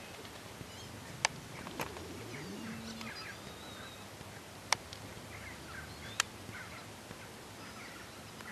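Birds calling in short scattered chirps, with four sharp clicks, the loudest sounds, at about one, two, four and a half and six seconds in.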